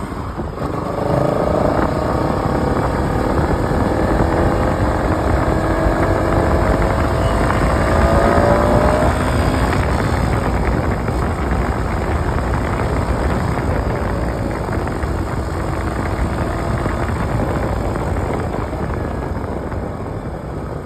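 Bajaj Pulsar NS200's single-cylinder engine running while the bike is ridden, over heavy wind noise on the microphone. About a second in it gets louder and its pitch climbs in rising sweeps until around eight seconds, then it eases off gradually.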